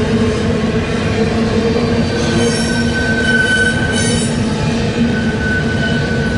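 Double-stack intermodal freight train rolling past: a steady, loud rumble of steel wheels on rail. Thin, high, steady squealing tones from the wheels come and go from about two seconds in.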